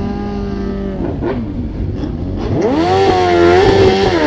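Motorcycle engine running steadily, then revving up sharply about two and a half seconds in and holding the higher revs as the bike accelerates, with a brief dip near the end.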